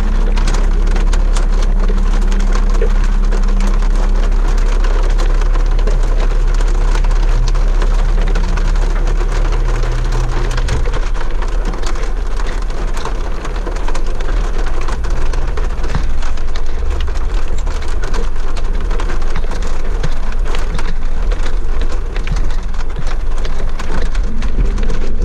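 Rain pattering hard on a vehicle's windshield and roof, heard from inside the cab as dense fast ticks of drops. Under it runs the steady low rumble of the vehicle driving a dirt trail.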